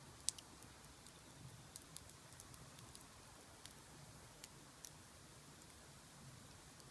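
Wood fire crackling quietly in a large iron pot, with sparse irregular pops and one sharper pop just after the start.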